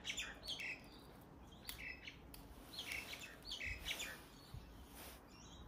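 Small birds chirping in short, irregular bursts, with a few faint clicks.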